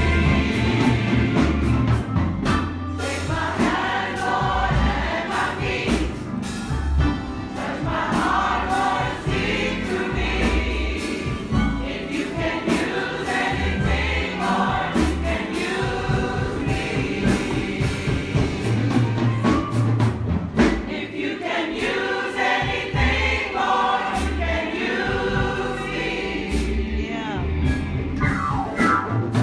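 Church congregation and choir singing a gospel song, with low bass accompaniment and sharp percussive hits.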